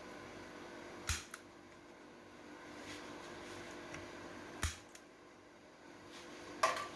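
Three short, sharp clicks spaced a few seconds apart, over a steady low machine hum.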